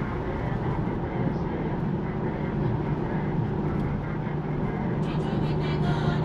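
Infiniti Q50's V6 engine and aftermarket exhaust (resonated test pipes into a non-resonated Ark Grip exhaust) droning steadily while driving. A short run of crackles comes in about five seconds in.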